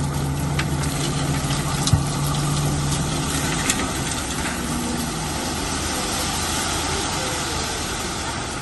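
Bulldozer's diesel engine running steadily at low revs, with a couple of brief clicks from the machine.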